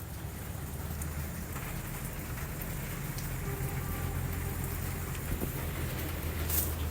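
Steady rain falling with a low rumble underneath and a few sharp drip-like ticks, one standing out near the end.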